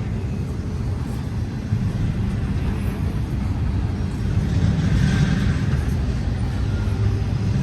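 Steady low rumble of a passing double-stack intermodal freight train, with a light hiss of rolling noise swelling a little about halfway through.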